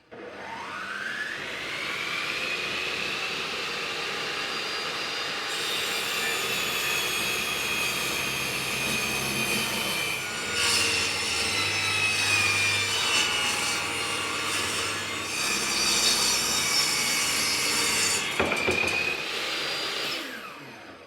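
Electric saw spinning up with a rising whine, then running steadily while cutting wooden blocking for the siding, and winding down near the end.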